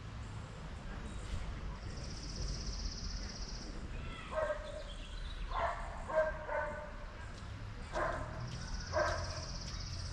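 A dog barking and yapping in short bursts, several times in a row. A high, steady buzz comes and goes twice.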